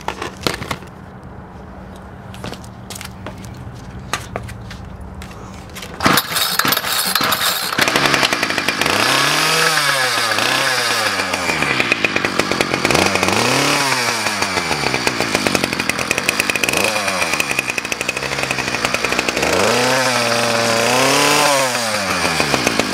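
Small gasoline engine of a piece of lawn equipment, cold, primed and choked, being pull-started. It catches about six seconds in, then is revved up and down four times.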